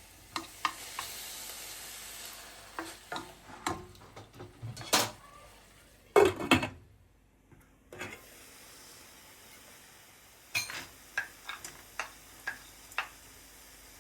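Food sizzling in a pan while a utensil stirs and knocks against the pan, with scattered sharp clicks. The sound drops out briefly about seven seconds in, then more light utensil clicks come over a faint steady hiss.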